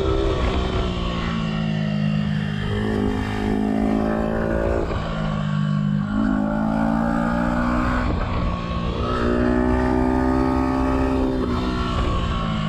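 Yamaha R125's single-cylinder four-stroke engine, through a Black Widow exhaust with the dB killer removed, pulling hard under way. Its pitch climbs and then drops sharply about four times as the rider accelerates and shifts gear, with a rushing wind noise underneath.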